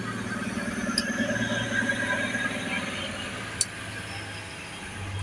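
Multi-car passenger train running past, with a steady low hum and a rapid rattle of its running gear and wheels on the rails. Two sharp clicks, about a second in and near the end.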